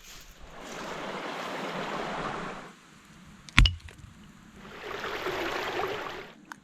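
Two swells of rushing, water-like noise, each about two seconds long, with a single sharp knock between them.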